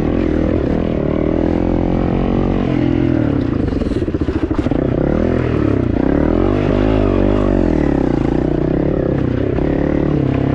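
Dirt bike engine running under changing throttle, its pitch rising and falling again and again, with a few sharp knocks a little before the middle.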